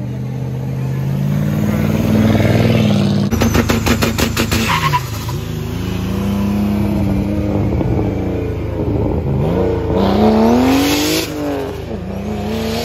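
Car engines accelerating as cars pull away and drive past, pitch climbing and dropping back several times with gear changes. A rapid run of sharp pops comes about three to five seconds in.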